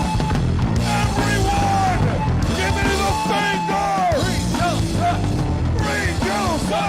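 Loud punk rock song with drums, bass and electric guitar, with pitched notes that slide up and down.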